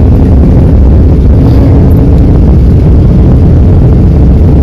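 Steady low rumble of aircraft cabin noise, the engines and airflow heard from inside the passenger cabin.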